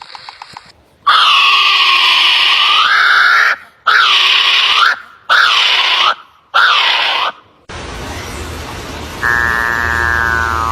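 A bird's loud, harsh calls: one long call, then three shorter ones, each dipping and rising in pitch. It then gives way to a steady low hum with a buzzy tone near the end.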